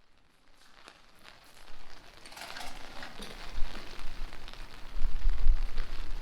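Rain pattering with scattered sharp drip ticks, fading in from silence and growing louder. A low rumble rises under it in the second half.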